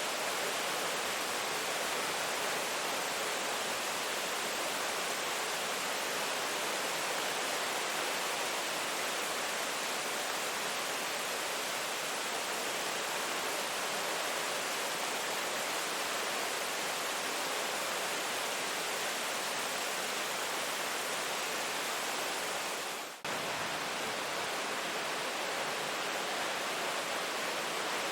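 Steady rain falling, an even dense hiss, with a momentary dip about three-quarters of the way through.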